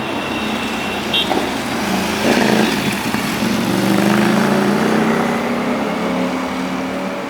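Motorbike engine pulling away under steady acceleration, its note rising slowly from a couple of seconds in, over road traffic noise.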